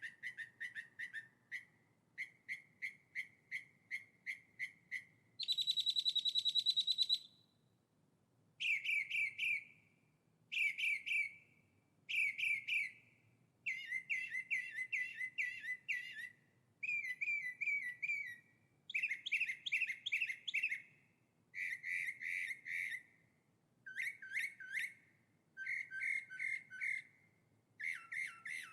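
A songbird singing in short, repeated phrases of rapid notes with brief pauses between them. About six seconds in comes a loud, fast, even trill, higher than the rest.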